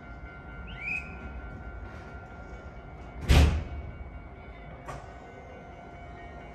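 Interior ambience of a stopped commuter train at a station platform: a steady low rumble with faint steady hum tones, a brief rising chirp about a second in, and one loud sudden burst lasting about half a second a little past the middle, followed by a small click.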